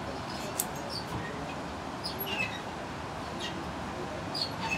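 Birds chirping: a few short, high, falling notes about a second apart, over a steady background noise.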